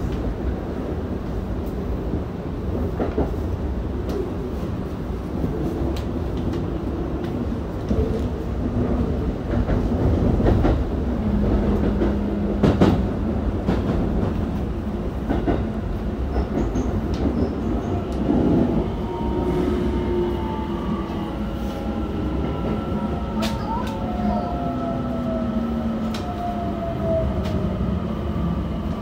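Electric train sounds at a station: a steady low hum with scattered knocks and clatter. From about halfway through, whining tones slide slowly in pitch.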